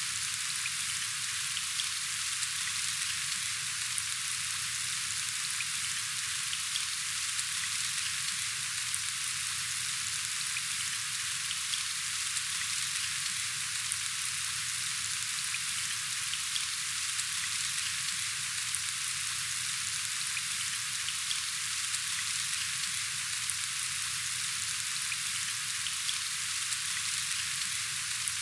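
Steady rain falling, a dense even patter of fine drops that holds unchanged throughout.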